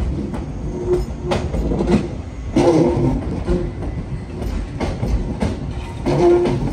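A Mariyung (New Intercity Fleet) electric double-deck train rolling slowly past over pointwork. Its wheels click irregularly over rail joints and points, and there are short ringing tones about two and a half seconds in and again near the end.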